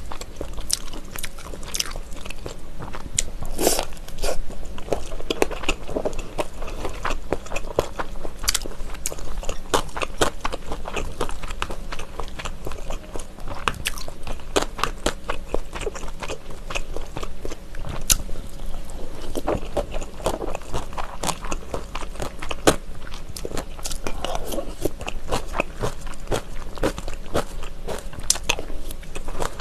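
Close-miked eating sounds: chewing, biting and wet mouth clicks and smacks, one after another, from someone eating gimbap (seaweed rice rolls) and kimchi stew, with an occasional utensil scraping the bowl.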